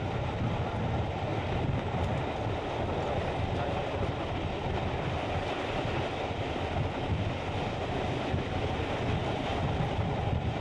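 Steam-hauled train running at speed, heard from an open carriage window: a steady rumble of the coaches on the rails, with wind rushing past.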